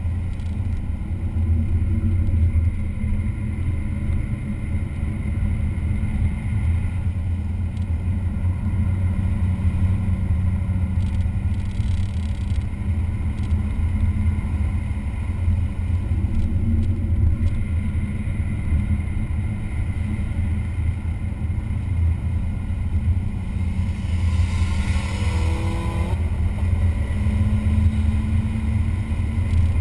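Engine of a vehicle lapping a race track, running steadily at speed, with a brief falling whine about three-quarters of the way through.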